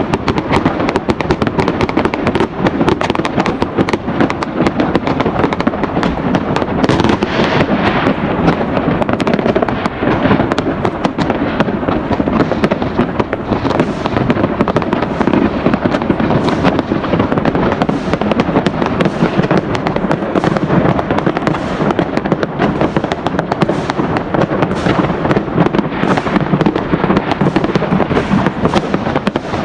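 Fireworks going off in a dense, unbroken barrage of overlapping bangs and crackles, with no let-up.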